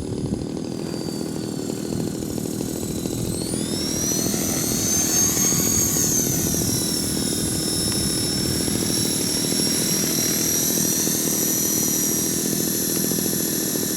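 450-size RC helicopter in flight: a high motor whine over steady rotor noise. About three to four seconds in, the whine rises in pitch, then eases back and holds steady.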